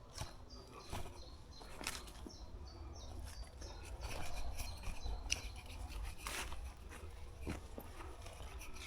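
Footsteps crunching and twigs snapping on a woodland path, with a bird singing a series of short high notes in the first few seconds and a low steady rumble underneath.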